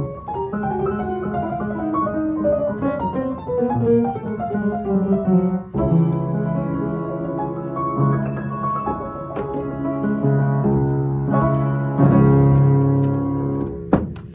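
Piano playing a melody over lower notes; just under six seconds in, it moves to fuller, louder chords, and it stops abruptly at the end.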